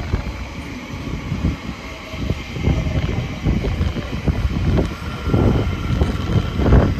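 Elizabeth line Class 345 electric train running along the tracks in a low, uneven rumble, with wind buffeting the microphone.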